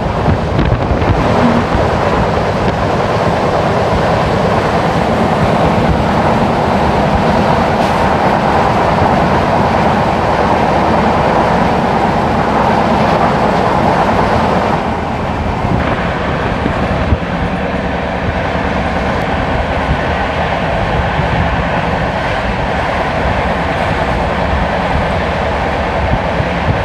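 Running noise of a passenger train at speed, its wheels on the rails heard from an open coach doorway. A train on the adjacent track passes alongside, making the noise louder until it falls away abruptly about halfway through, leaving the steady running of the train itself.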